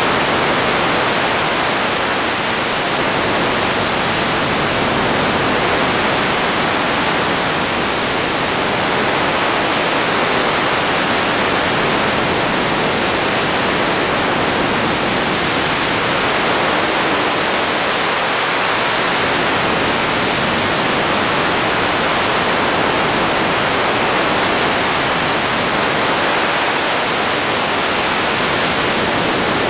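Radio static: a steady, even hiss with no tones or voices in it.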